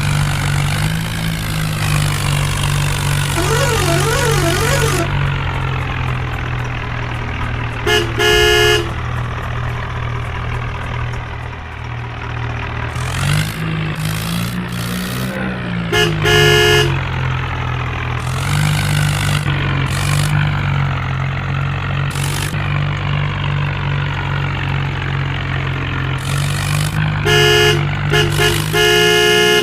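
Tractor engine running steadily under load, its pitch rising and falling once midway, with a horn sounding three times in short stuttering blasts.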